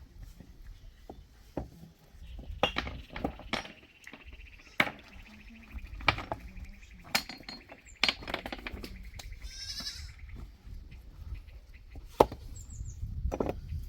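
Goats bleating, with sharp knocks and clatter scattered throughout.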